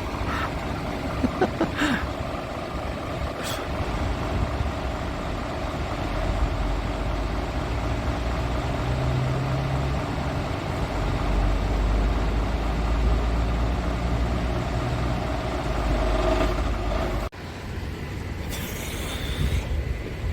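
Scania G500 truck's diesel engine running, pulling harder with a stronger low drone from about six seconds in. After a sudden break near the end comes a short hiss of air.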